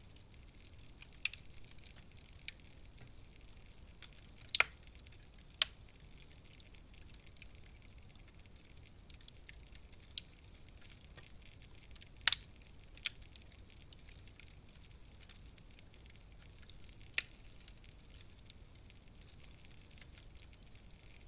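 Wood fire in a fireplace crackling: a soft steady hiss with scattered sharp pops and snaps, a dozen or so, the loudest about four and a half, five and a half and twelve seconds in.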